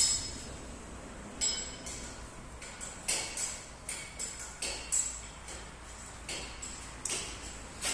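Irregular metallic clinks and light knocks, a dozen or so sharp strikes spread unevenly, typical of metal tools and parts being handled during engine repair work.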